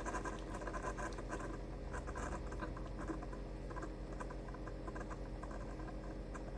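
Keurig K-Supreme Plus single-serve coffee maker brewing: its pump hums steadily under an irregular crackle and patter of coffee sputtering and dripping into the cup.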